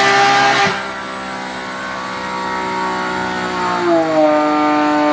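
Porsche 718 GT4's 4.0-litre flat-six, breathing through an Armytrix exhaust and high-flow headers, running at high rpm under throttle. The throttle closes sharply about 0.7 s in and the engine note falls away. Near 4 s the pitch steps down with a short blip, and the note then holds steady.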